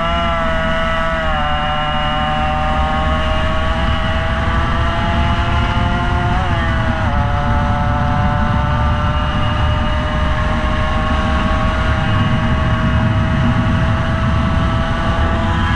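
Motorcycle engine pulling hard at full throttle. Its pitch climbs steadily and drops sharply at two upshifts, about a second in and about seven seconds in, over a steady rush of wind noise.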